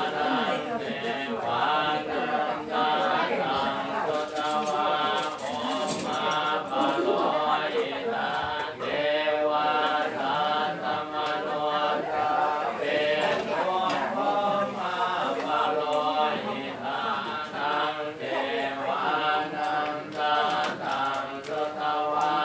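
Several voices chanting a Buddhist chant together in a steady, continuous drone.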